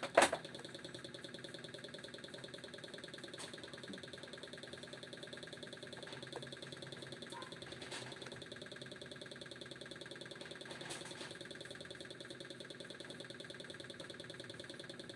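A sharp click just after the start, over a steady mechanical hum with a fast, even flutter and a few faint ticks.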